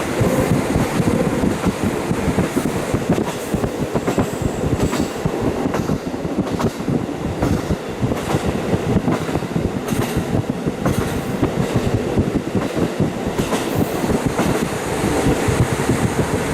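JR KiHa 40 diesel railcar running along the line, heard through a fully open window: a steady rumble of the running gear with wind rush, and wheels clicking over rail joints every few seconds.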